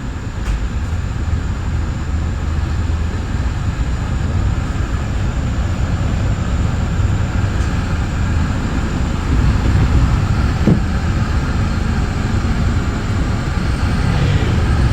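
Steady rumble and wheel-on-rail noise inside a Metra bi-level commuter cab car moving at speed, with a faint click about half a second in and a brief sharp squeak or clank near the middle.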